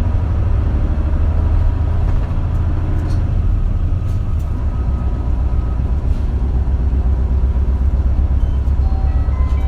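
Isuzu KL-LV280L1 city bus running, heard from inside the cabin: a steady low engine drone mixed with road noise.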